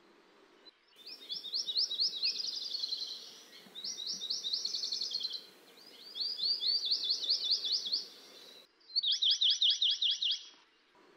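A songbird singing: four runs of quick, high, down-slurred chirps, each lasting about two seconds, with short pauses between them.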